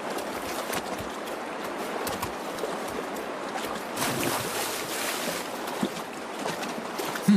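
Shallow salmon stream rushing steadily over rocks, with splashing as a black bear cub lunges after salmon, loudest about four seconds in.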